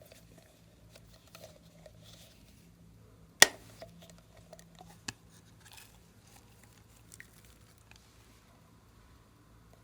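Slime being handled and mixed by hand: soft, faint squishing and sticky crackles, with one sharp click about three and a half seconds in and a smaller one about five seconds in.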